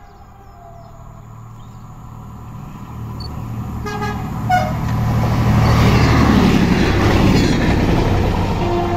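A train approaching and passing close by, growing louder to a peak about six to seven seconds in, then easing off. A short toot of its whistle or horn sounds about four and a half seconds in.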